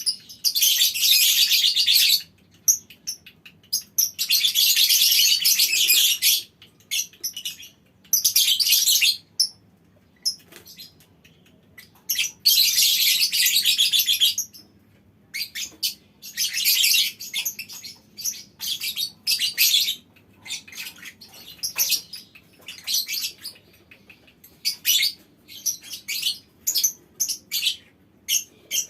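A colony of lovebirds giving long, shrill chattering trills (ngekek panjang), each lasting one to two seconds, in the first half, then a run of short sharp chirps and calls with brief gaps between.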